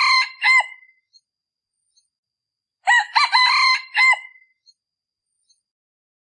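A male decoy rooster crowing, the call used to lure wild junglefowl: the tail of one crow ends about a second in, and a second complete crow follows about three seconds in.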